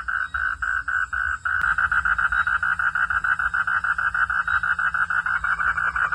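Frogs calling at night: a rapid, steady train of pulsed calls, about seven a second, quickening to about ten a second after a faint click about a second and a half in.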